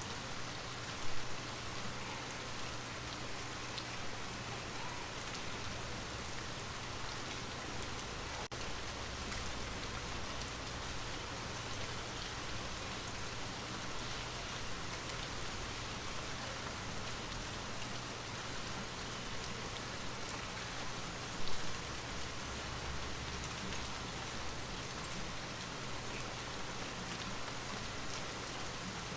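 Steady rain falling, an even hiss of drops, with two brief louder swells about a second in and about 21 seconds in.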